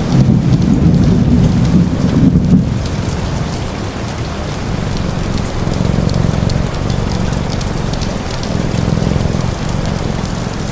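Steady rain, with a low thunder rumble that fades out about three seconds in.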